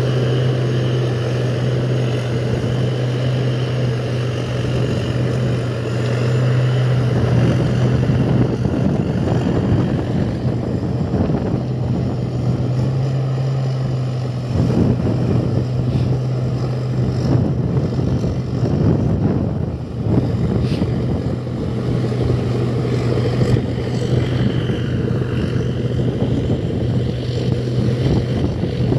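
A machine running steadily: a constant low hum under a rushing, airy noise, easing off briefly a couple of times.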